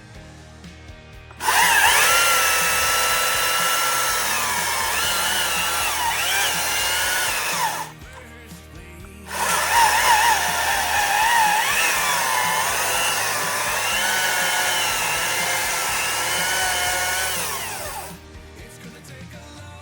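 STIHL battery chainsaw running in two long bursts, starting sharply about a second and a half in and again about nine seconds in, its whine wavering in pitch throughout each run. Faint background music runs underneath.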